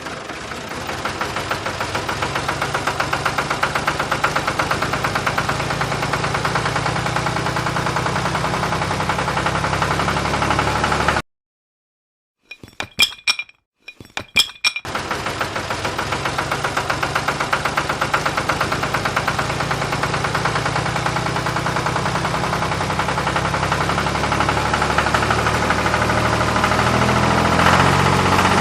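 The small motor of a DIY model tractor running steadily with a fast rattling rhythm. It stops abruptly about eleven seconds in, with a few sharp clicks during a silence of roughly three seconds, then starts again.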